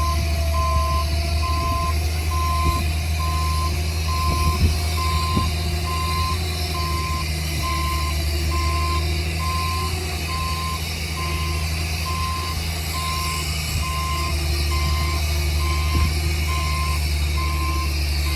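A heavy machine's reverse alarm beeping steadily, about once a second, over the steady low running of a large diesel engine.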